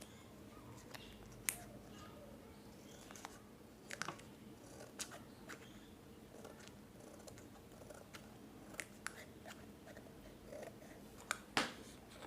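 Scissors snipping coloured paper, a series of short, separate cuts at irregular intervals as a fringe of close slits is cut, faint, with a louder snip about a second and a half in and another near the end.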